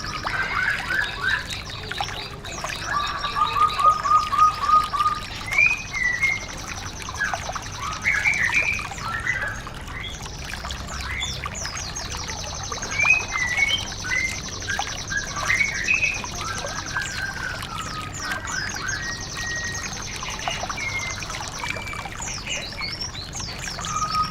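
Several songbirds singing over one another in a recorded song mix: varied chirps and short whistled phrases, a quick run of evenly repeated notes about three seconds in, and long, fast, high trills running underneath.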